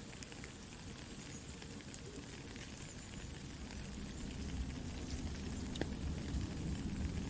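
Soft, steady rain mixed with a campfire crackling, with scattered sharp pops. A low fire rumble swells from about four seconds in.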